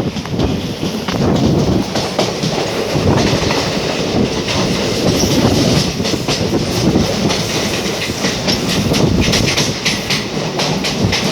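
Moving train heard from on board: a steady rumble of wheels on the rails with irregular clickety-clack clatter over the rail joints.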